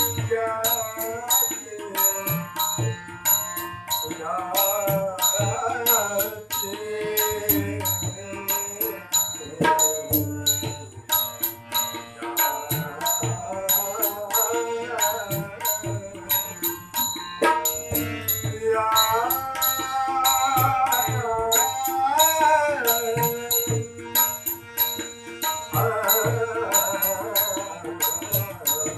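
Marathi devotional song accompaniment between sung lines: tabla and light percussion keep a steady beat under a wavering melody that comes in phrases of a few seconds.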